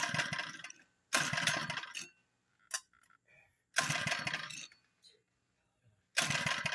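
Predator small engine being cranked to start: four short attempts, each lasting under a second, with quiet gaps between and no steady running yet.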